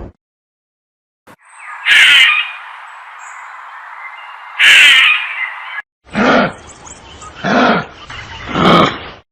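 Animal calls in two short clips. The first has two loud calls over a steady background hiss. After a sudden cut, three calls follow about a second apart.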